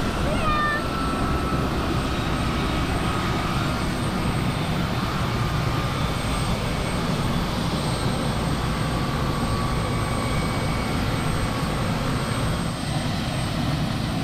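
Helicopter running close by: a steady, loud rotor and turbine-engine noise.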